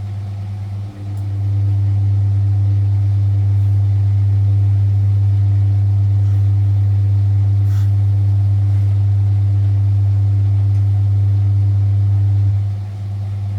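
Vintage Frigidaire Super Deluxe Automatic 50 washing machine running, with a steady deep hum from its induction motor. About a second in the sound dips briefly and then runs louder, with a higher tone over the hum. It drops back to the quieter hum near the end.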